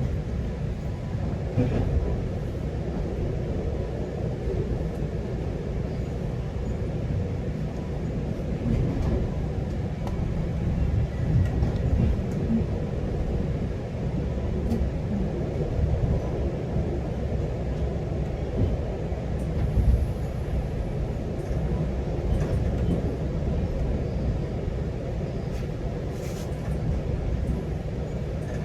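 A GO Transit passenger train rumbling steadily along the track, heard from inside a coach, with a few faint clicks and a brief louder knock about twenty seconds in.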